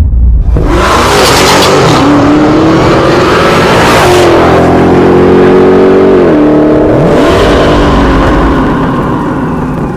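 Performance car engine accelerating hard at full throttle, its pitch climbing and then dropping sharply twice, as at gear changes.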